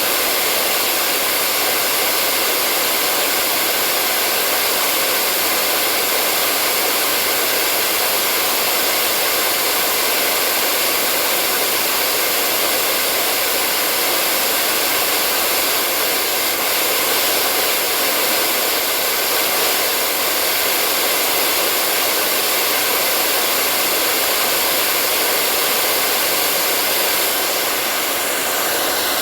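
Hair dryer running steadily: an even, airy hiss with a faint whine in it, its loudness hardly changing.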